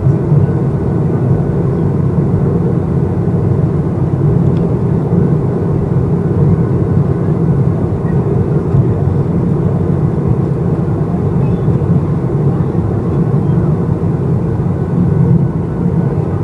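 Steady in-flight cabin noise of a Boeing 737-800 during descent: a constant low drone of its CFM56-7B engines and the air rushing past the fuselage.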